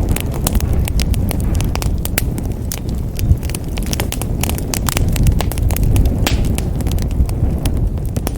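Wood fire crackling in a fireplace: dense, irregular sharp pops and snaps over a steady low rumble of the burning fire.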